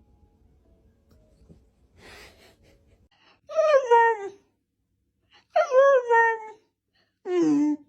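A pet animal's drawn-out vocal calls, three in a row, each about a second long and falling in pitch.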